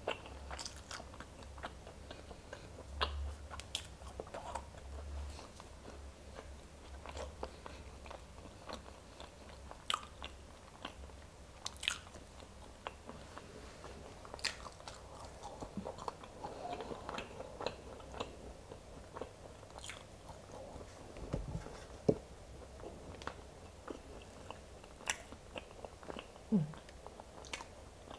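Close-miked chewing of boiled velvet bean (Mucuna) seeds, with soft, scattered mouth clicks.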